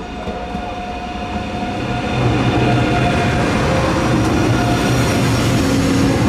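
DB ICE high-speed electric train passing close along the platform. It grows louder over the first two seconds as it reaches the microphone, then holds a steady rumble of wheels on rail with a low hum.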